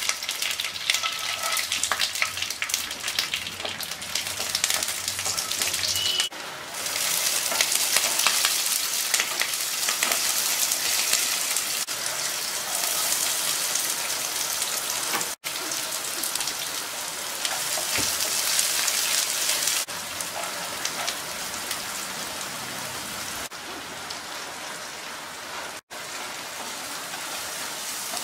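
Hot oil sizzling and crackling in a nonstick pan as curry leaves, green chillies, peanuts, chopped onion and carrot fry. The steady crackle cuts out briefly three times.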